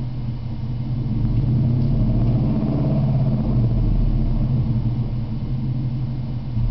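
1997 Ford F-150's 4.6-litre V8 running through a true dual exhaust with Flowmaster 40 Series mufflers, a steady deep rumble that swells a little louder in the middle.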